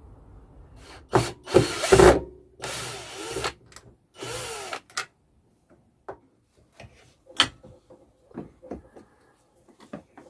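A small power tool run in three short bursts, its pitch dipping and rising within each, followed by a series of light knocks and clatter.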